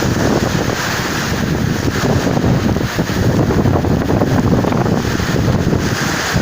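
Very strong wind buffeting the microphone: a loud, continuous low rumble with constant flutter.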